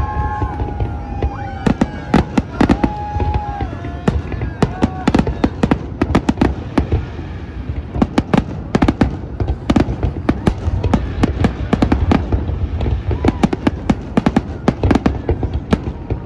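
Fireworks display: a dense, continuous barrage of rapid bangs and crackles. In the first few seconds whistling tones, some held and some gliding, sound among the bangs.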